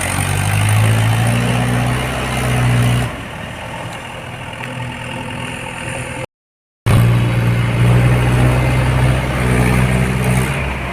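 Diesel tractor engine working hard under load, its pitch climbing over the first few seconds, then dropping back suddenly. The sound cuts out for about half a second a little past the middle and returns with the engine running strongly.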